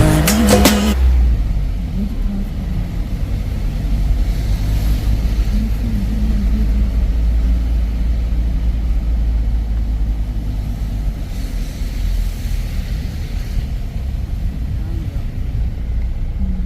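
Steady low rumble of a moving vehicle, with faint voices in the background. A song cuts off about a second in.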